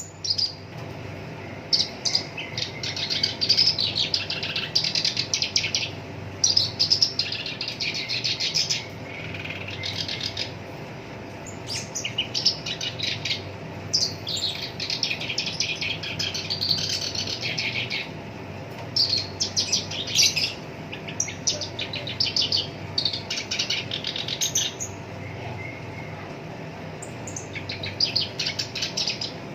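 Black-browed reed warbler singing in bursts of rapid, harsh chattering notes, each phrase lasting one to three seconds with short pauses between.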